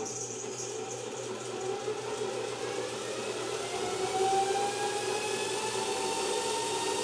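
Electric motor spinning up: its whine rises steadily in pitch and grows louder as the rig accelerates toward about 700 RPM.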